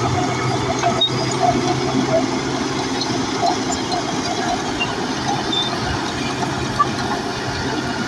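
Bulldozer at work: its diesel engine runs steadily under load, with a continuous clatter and squeak of the steel tracks.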